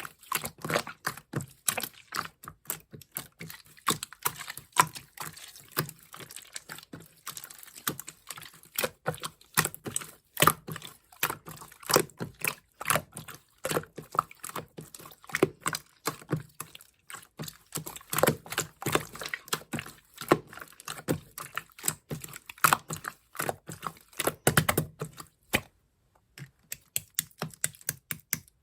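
Slime being squished and pressed by hand, making rapid, irregular wet clicks and pops that thin out near the end.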